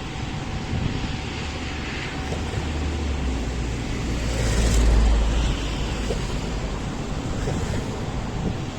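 A vehicle passing close by: a low rumble that builds to its loudest about five seconds in and then eases off, over a steady wash of traffic and wind noise.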